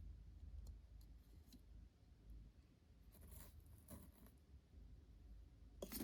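Near silence: room tone with a faint low hum and a few soft handling noises a little past the middle.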